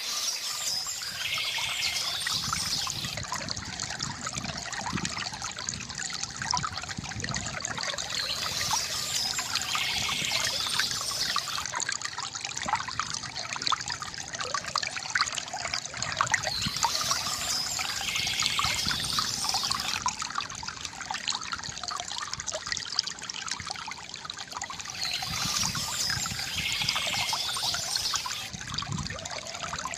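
Water trickling and splashing steadily from a bamboo fountain, a dense run of small drips and gurgles, with a brighter patch of splashing that recurs about every eight or nine seconds.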